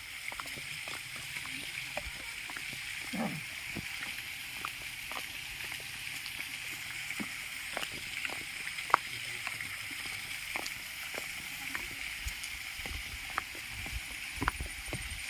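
Steady rush of water at a small waterfall, with scattered light clicks and knocks.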